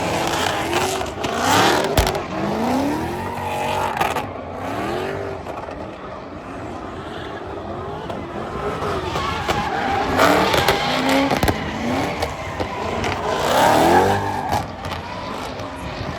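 A car engine revving hard, its pitch climbing and falling again and again, with squealing tyres as in a drift run or burnout. The loudest surges come about a second in, around ten seconds in, and near the end.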